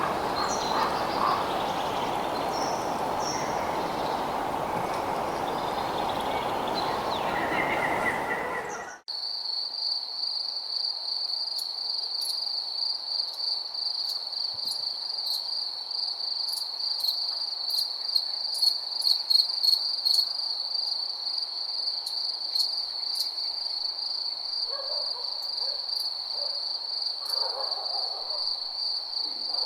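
A broad rushing outdoor ambience with a few bird chirps, which cuts off abruptly about nine seconds in. A steady high-pitched cricket chorus with scattered clicks takes over, and a few faint lower calls come in near the end.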